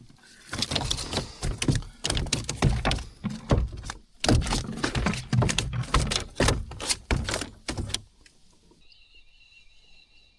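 Irregular knocking and rubbing, close and heavy like gear being handled right at the microphone, which stops about eight seconds in. After it a faint, steady, high-pitched tone is left.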